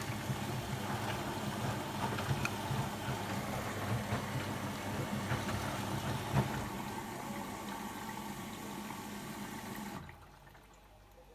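LG WD-10160SU front-loading washing machine on its rinse cycle: water running with a steady low hum, which cuts off suddenly about ten seconds in.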